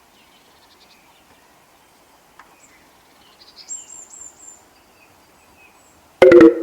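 Quiet outdoor background with a short run of high rising bird chirps in the middle. Just after six seconds in, a sudden, very loud pitched blast lasts about half a second and then cuts off.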